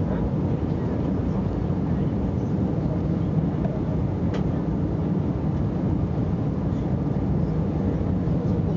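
Steady low rumble of an Airbus A321 in flight, heard from inside the passenger cabin: engine and airflow noise, with a faint tick about four seconds in.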